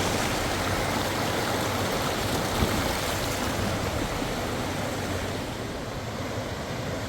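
Steady rush of cascading water, a dense even noise, its highest hiss easing slightly near the end.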